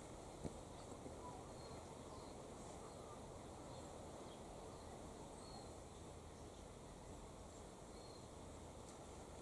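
Quiet outdoor garden ambience: a faint steady background hiss with occasional faint, short, high chirps and a single soft click about half a second in.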